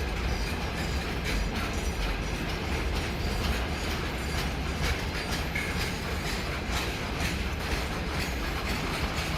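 A train running past, its wheels clattering over the rail joints over a steady low rumble.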